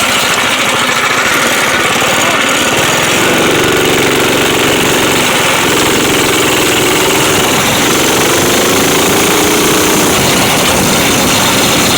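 Dirt bike engine running loudly during a ride, with a steadier engine note from about three seconds in until near the end.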